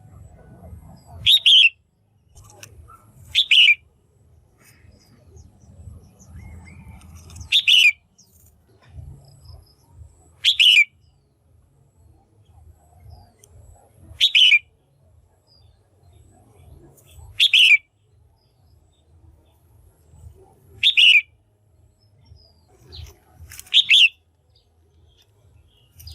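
A female red-whiskered bulbul calling, loud and clear: eight short calls, one every three to four seconds. A faint low hum runs underneath.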